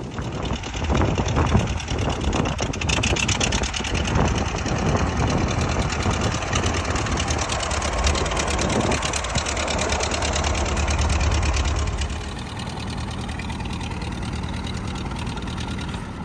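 The four-cylinder engine of a 1953 Minneapolis Moline ZB tractor running with a fast, even beat. It is louder for about the first twelve seconds, then settles to a lower, steady run.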